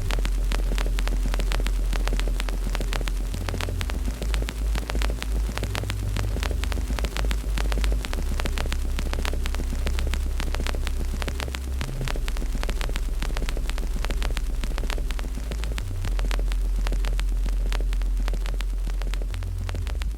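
Wood fire in a fireplace crackling: many small, rapid pops and snaps over a steady low rumble.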